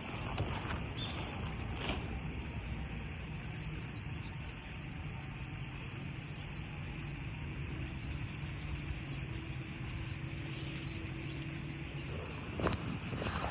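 Autumn insect chorus: a steady high-pitched trill over a low rumble, with a few soft knocks and one sharper click near the end.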